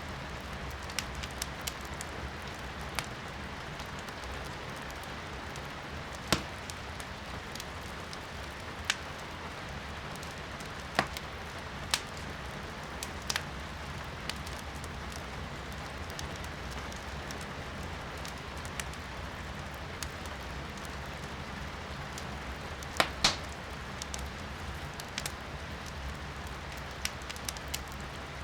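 Firewood burning in a fireplace, crackling with scattered sharp pops, the loudest a double pop about three-quarters of the way through, over a steady hiss of rain heard from indoors.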